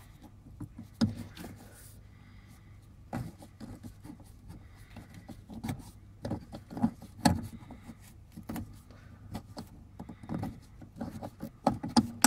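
Irregular metallic clinks and knocks of hand tools and the rear shock absorber's mounting hardware as the shock is worked back into place over its new insert.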